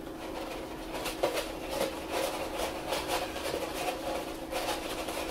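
Paper rustling with light, irregular taps as a glued paper cut-out is pressed and smoothed into place, starting about a second in, over a faint steady hum.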